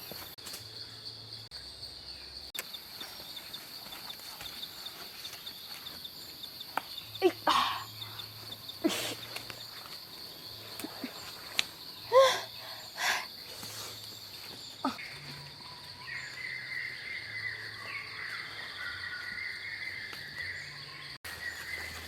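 Forest insects droning steadily at a high pitch, with a few short, sharp sounds scattered through. A second, lower insect buzz joins about two-thirds of the way in.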